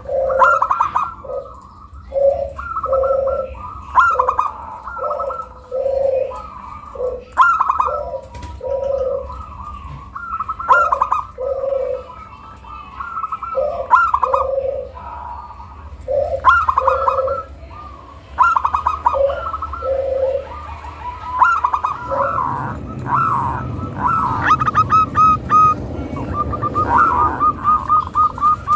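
Zebra dove (perkutut) cooing its song: phrase after phrase of short rolling coos with brief pauses between. In the last few seconds the notes come faster and run together. It is a lure song that draws other perkutut to answer.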